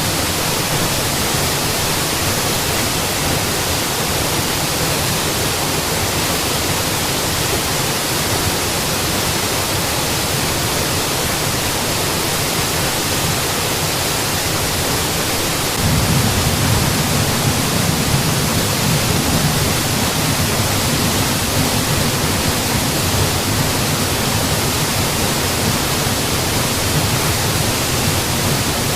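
Steady rush of a mountain waterfall, an even hiss over a deep rumble. A little over halfway through, the low rumble suddenly steps up and stays louder.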